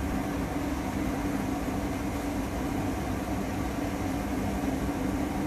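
A machine running with a steady hum, holding two low tones over an even noise.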